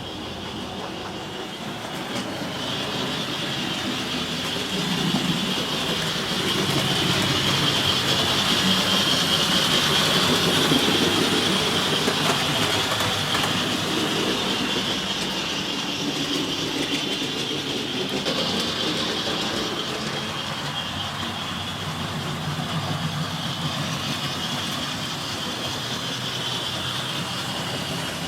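Model train running on an exhibition layout: the whir of its small electric motor and wheels on the track. It grows louder to a peak about ten seconds in, then fades as it passes.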